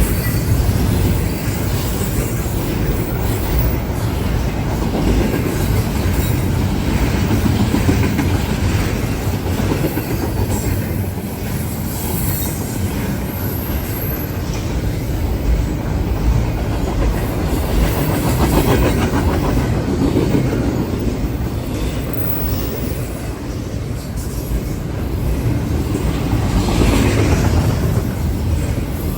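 Long intermodal freight train's cars rolling past close by, steel wheels running steadily over the rails.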